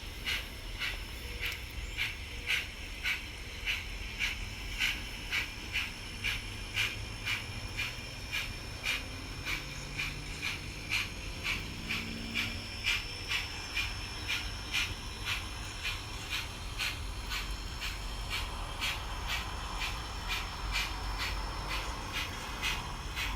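Model 2-8-0 steam locomotive's sound decoder chuffing steadily, about two exhaust beats a second, over the low hum of the running model.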